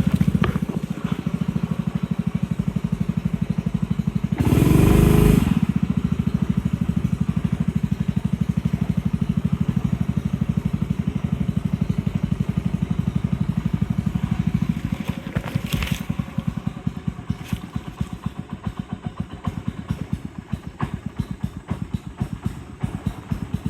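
A boat's engine running with a fast, steady pulsing beat. About five seconds in, a loud rushing burst lasts about a second. From about sixteen seconds the engine gets quieter and its separate beats stand out more, as it settles toward idle.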